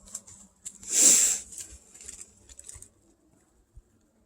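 Rustling and crackling in forest undergrowth, as from someone pushing through brush off-trail: one loud swish about a second in, then scattered light crackles and snaps.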